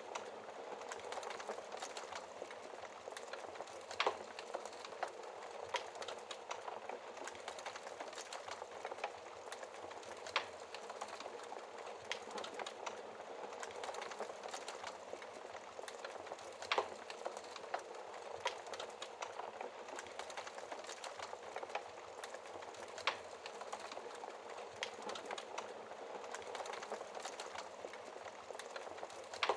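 Wood fire burning in a fireplace: a steady soft hiss of flames with frequent small crackles and a few sharper pops, one every few seconds.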